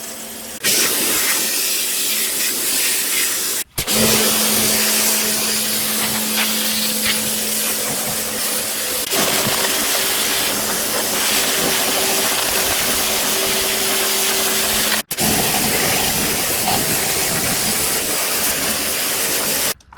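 Water blaster (pressure washer) spraying a hard jet of water over a washing machine's dirty outer bowl: a loud, steady hiss of spray over the hum of the washer's pump motor, broken off very briefly twice.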